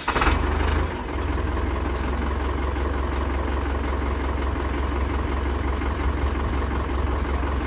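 YTO Agri Master 854 tractor's diesel engine just after starting: it runs louder for about the first second, then settles into a steady idle.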